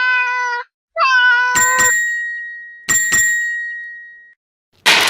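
A domestic cat meowing twice, each meow long and level in pitch, about a second long. Then two bright chime-like dings, each a quick double strike that rings on and fades over a second or more.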